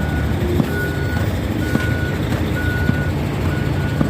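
Heavy truck's reversing alarm beeping at a steady pitch about once a second, over the truck's diesel engine running.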